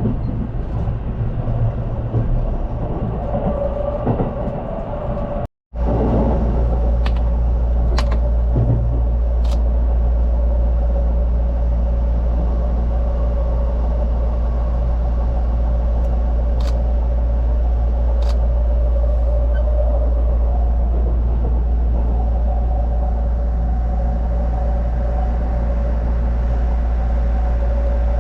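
Train running, a steady low rumble. It cuts out briefly about five and a half seconds in, then resumes as an even heavier low rumble with a faint steady hum and a few sharp clicks.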